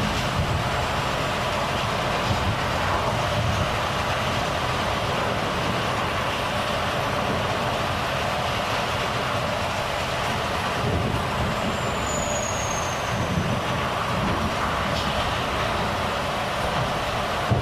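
Volvo FH truck on the move: steady engine and road noise with no gear changes or braking. A short, high falling whine comes about twelve seconds in.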